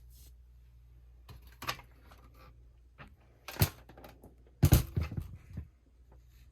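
A handful of sharp knocks and clatters, with the loudest about three and a half seconds in and a cluster about a second later, over a low steady hum.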